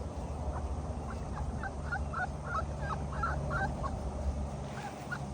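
Newborn puppies squeaking and whimpering in a quick run of short, high-pitched cries, over a steady low hum.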